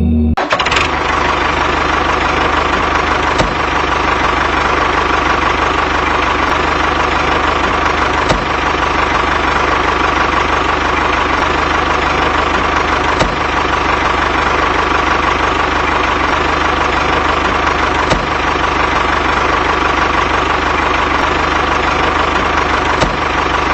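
Mini tractor engine sound running steadily at idle, with a fast even chug and a faint click about every five seconds.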